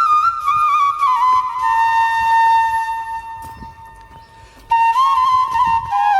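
Background music on a solo flute-like wind instrument: one slow melody of long held notes. The melody fades away past the middle, then a new phrase comes in suddenly about three-quarters of the way through.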